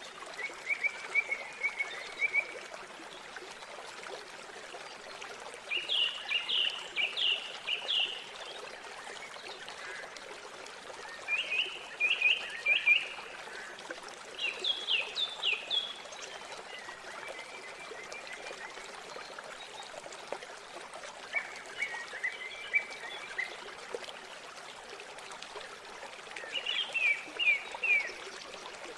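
River water flowing with a steady rush. Over it a bird sings a short phrase of quick high notes every few seconds, with softer, lower trills in between.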